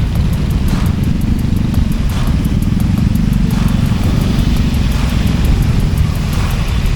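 Honda Beat 110 cc scooter riding along the road: a steady low engine and road rumble.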